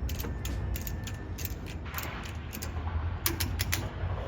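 About a dozen irregular clicks and creaks of metal parts being worked by hand, over a low steady rumble.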